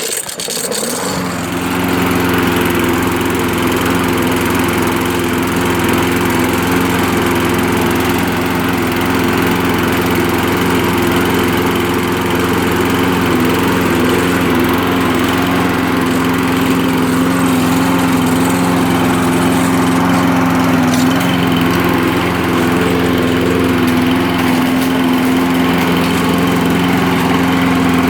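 Cold start of a walk-behind push mower's 5 HP Briggs & Stratton engine, heavily primed: it catches and comes up to speed in the first couple of seconds, then runs steadily. The owner says it doesn't run 100% because the carburetor needs a cleaning.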